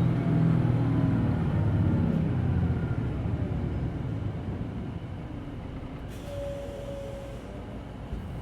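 Interior of a Hino Blue Ribbon City Hybrid bus slowing for a stop: the diesel engine note falls in pitch and fades over the first few seconds, leaving a quieter rumble. About six seconds in comes a short hiss of air with a brief steady tone.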